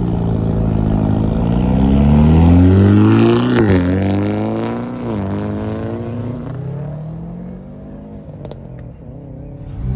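A car's engine accelerating hard as it drives off, its pitch climbing, dropping sharply at a gearshift about three and a half seconds in, climbing again, then fading as the car pulls away. Another engine starts to rise near the end.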